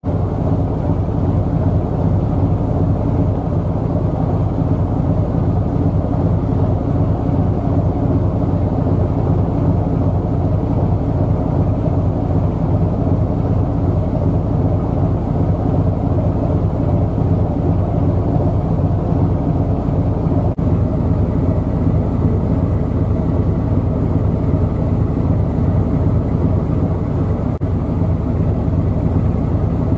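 Steady low drone of a ship's diesel engine running at constant speed, with two very brief dropouts near the end.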